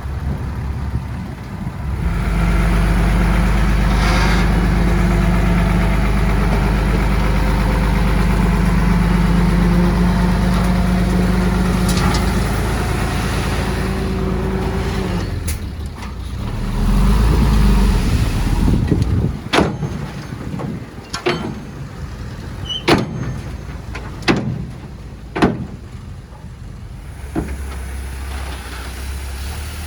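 Heavy diesel engine of earthmoving machinery running under load, steady for about the first half and then surging louder, followed by a string of sharp knocks in the second half.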